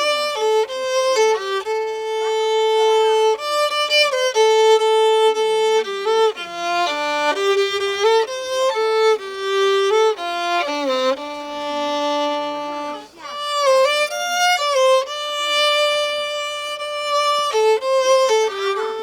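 Solo violin playing a slow melody of held notes with vibrato.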